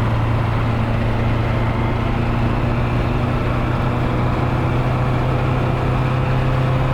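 Nissan 240SX driving at a steady engine speed, heard from inside the car: a constant low engine hum over road noise.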